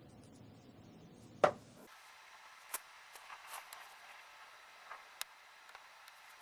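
A single sharp snap of an SWM-10 battery spot welder firing a weld pulse to tack a nickel strip or wire onto the cell, about a second and a half in, followed by a few faint small clicks.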